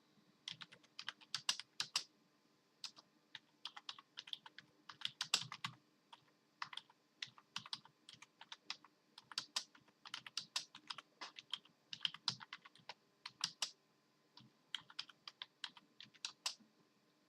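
Typing on a computer keyboard: quick runs of keystrokes in irregular bursts, broken by short pauses.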